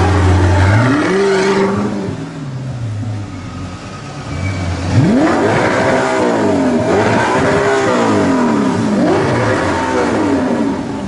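A supercar engine revving hard, its pitch climbing and dropping about three times in the second half, after a loud, steady engine note at the start.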